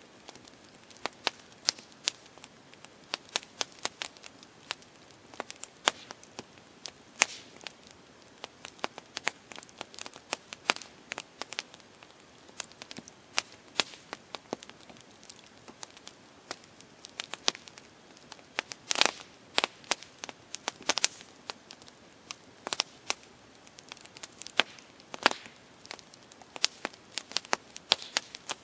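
Campfire crackling: irregular sharp pops and snaps of burning wood over a soft hiss, with a few louder pops now and then.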